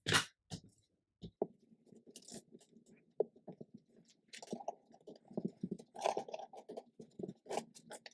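Paper being handled and laid in place: irregular rustling and crinkling with small clicks, after a sharp tap at the start.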